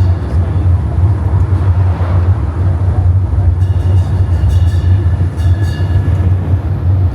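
Steady low rumble of a small tourist road train moving along, heard from on board.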